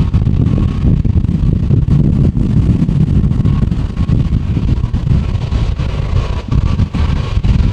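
Strong gusting wind buffeting the microphone, a loud, uneven low rumble that drowns out the jet aircraft, with a faint steady whine coming and going in the background.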